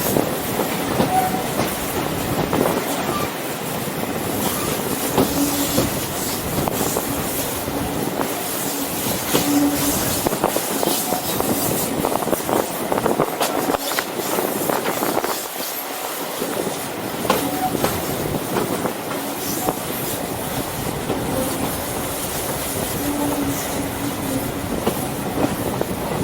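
Heritage steam-hauled train running along the track, its carriage wheels clicking over the rail joints amid a steady rumble, with brief wheel squeals now and then.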